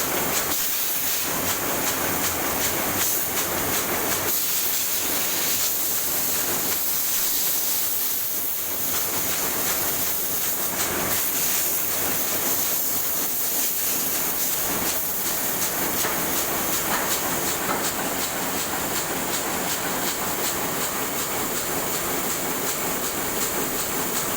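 Heidelberg SM 52 four-colour sheetfed offset press running steadily, a continuous mechanical clatter with a strong hiss.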